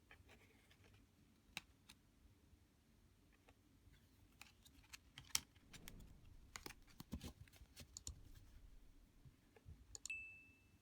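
Quiet handling of a Lenormand card deck and its box: a scatter of light clicks and taps, busiest in the middle. A sharper tap about ten seconds in is followed by a short, high ringing tone.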